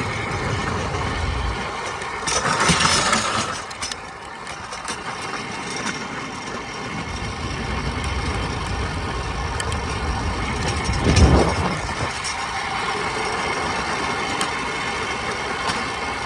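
Rush and rumble of riding a trike along a road, with wind buffeting the body-worn microphone. It swells louder about three seconds in and again about eleven seconds in.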